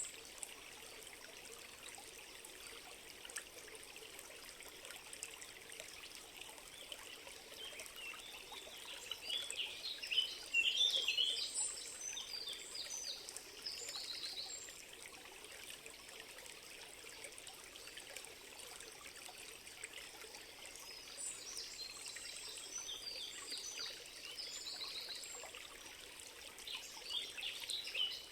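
Small stream trickling steadily, with birds chirping in short bursts of rapid high notes, a busy spell about a third of the way in and more near the end.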